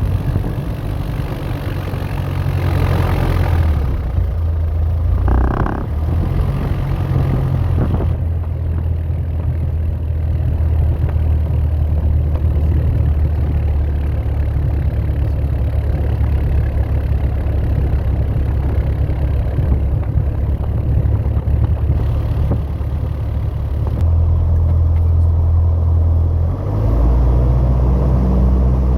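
Light aircraft piston engine and propeller running steadily, heard as a constant low drone, with its tone shifting twice in the last few seconds as the power setting changes.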